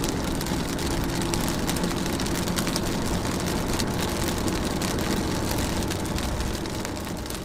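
Steady heavy rain with a dense patter of drops, over a low steady hum. It fades out near the end.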